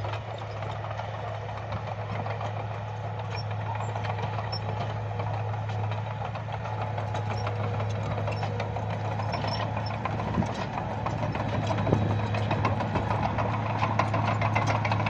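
Bulldozer's diesel engine running steadily with a low hum, with rapid clicking and rattling over it that grows a little louder toward the end.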